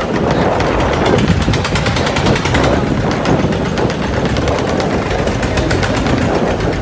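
A boat's engine running steadily, loud, with a rapid, even knocking beat over a low rumble.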